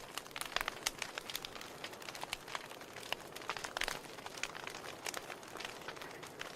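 Wood fire burning in a fireplace, the logs crackling with frequent irregular sharp pops over a soft steady hiss of flame.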